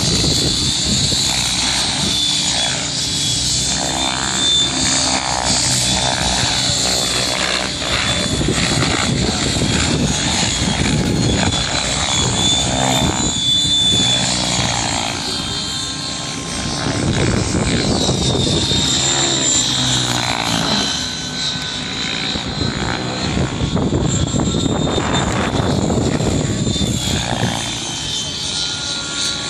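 Radio-controlled model helicopter flying aerobatics: a continuous high-pitched rotor and motor whine that wavers in pitch and swells and fades as the helicopter moves about.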